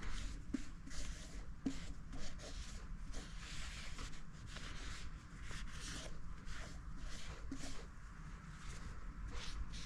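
Irregular rubbing and scuffing with a few small clicks, the sound of hands working over a bare engine block, over a steady low hum.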